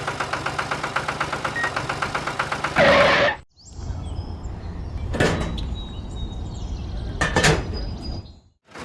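Small engine running with a fast, even chug of about eight beats a second, broken by a loud burst and two abrupt cuts, with a few sharp clicks in the quieter middle stretch.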